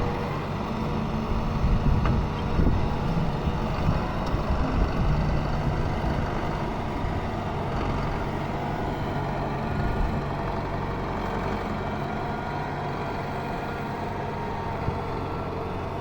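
Ford 7610 tractor's diesel engine running steadily, a little louder and more uneven in the first few seconds, while pulling a plough.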